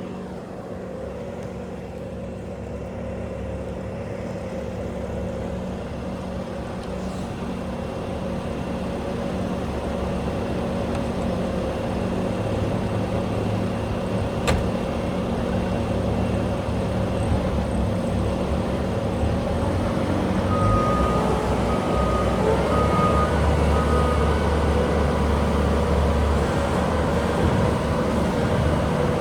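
Bobcat T740 compact track loader's diesel engine running and working, growing steadily louder as the machine is operated, with heavier low rumble in the last third. A sharp click about halfway and a few short high beeps about two-thirds of the way in.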